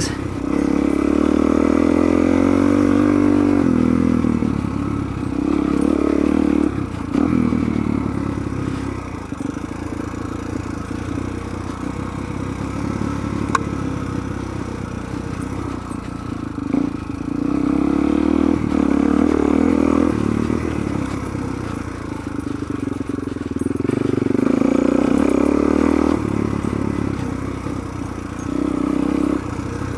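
Suzuki DR-Z400's single-cylinder four-stroke engine being ridden hard off-road. The engine pitch repeatedly climbs under throttle and drops back, with several louder stretches of hard acceleration.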